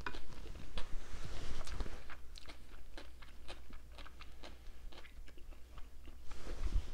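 A person chewing a mouthful of casserole topped with shredded lettuce: a run of many small crisp crunches.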